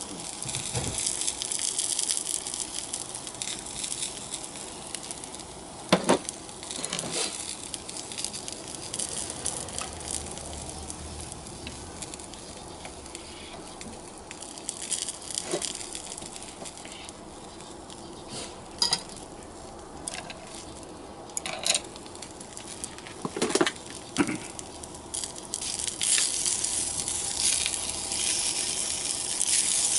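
Sausages and onions sizzling in oil in a small cast iron skillet, a steady frying hiss that swells near the end. A few sharp knocks of utensils against the pan break in now and then.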